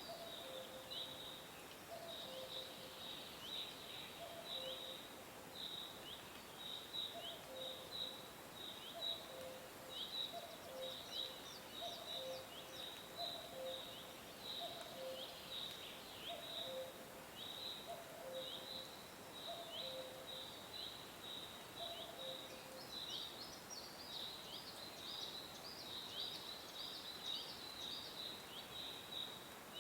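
Small birds chirping continuously, many quick short chirps overlapping. A lower two-note call repeats about once a second and stops a little past twenty seconds in.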